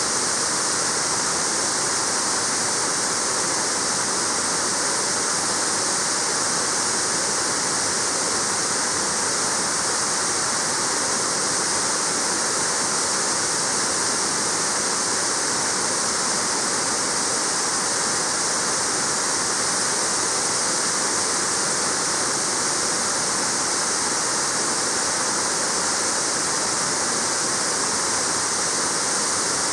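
Waterfall pouring steadily: an even, unbroken rush of falling water splashing into its pool.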